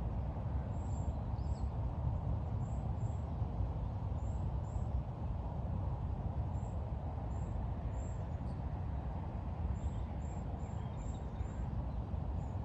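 Steady low rumbling outdoor noise, with faint short high chirps now and then.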